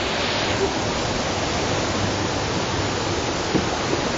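Waterfall pouring down, a loud, steady rush of falling water close to the microphone.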